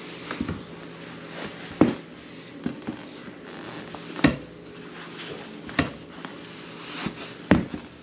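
A series of sharp knocks and clunks at irregular intervals, like lids, doors or drawers being shut, over a steady low hum.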